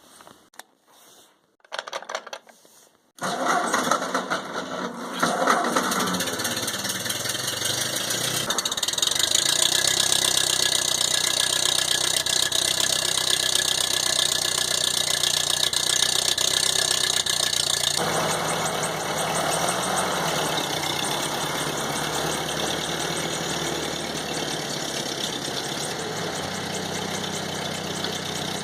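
1952 Ford 8N tractor's four-cylinder flathead gasoline engine starting about three seconds in, then running. It runs faster for a stretch in the middle and drops back to a steady idle about two-thirds of the way through.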